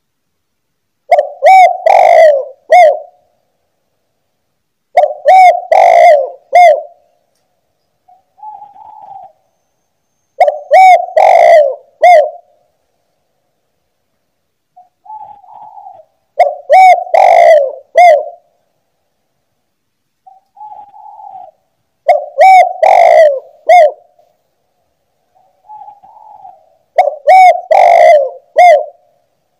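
Spotted dove (tekukur) cooing: six loud phrases of three or four notes each, one about every five to six seconds. Fainter, shorter calls come in the gaps between them.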